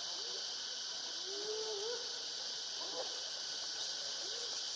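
Steady high-pitched insect drone, typical of cicadas or crickets, with faint short wavering calls over it, the longest about one and a half seconds in.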